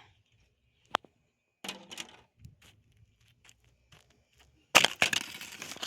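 A ceiling fan being smashed against ice: a sharp knock about a second in, some crunching, then a loud impact near the end followed by about a second of crunching.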